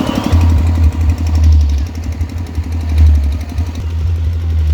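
Very loud, deep sub-bass from a large DJ sound system, coming in about a third of a second in and holding with a wavering level, with little sound above it.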